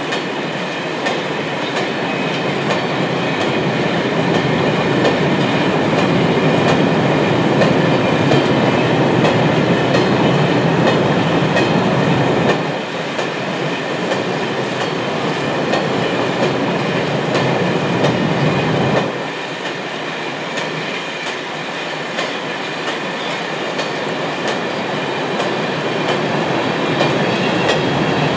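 Covered freight wagons of a long freight train rolling past, a steady noise of steel wheels running on the rails. The noise drops back sharply about 13 seconds in and again around 19 seconds.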